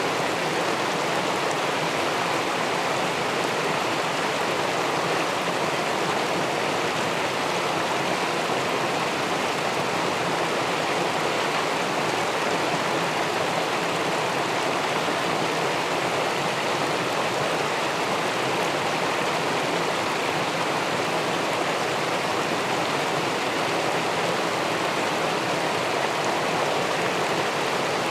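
River water spilling over a small weir and rushing into the pool below it: a steady, even rush of flowing water with no breaks.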